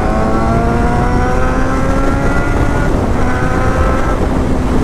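1999 Honda CBR600 F4's carbureted inline-four engine accelerating hard, its pitch climbing steadily. The rise breaks off about three seconds in, climbs again and breaks once more about four seconds in. Low wind rumble runs under it.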